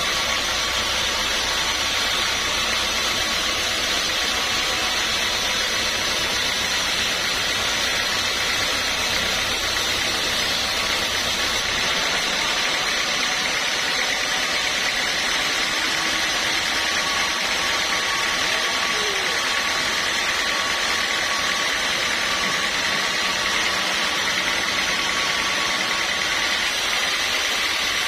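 Sawmill machinery running steadily: a continuous mechanical noise with a faint steady whine. A low rumble underneath drops out about twelve seconds in.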